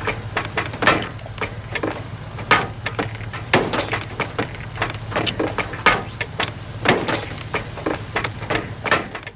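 Hailstones pelting a hard surface: a dense, irregular run of sharp knocks over a steady low hum.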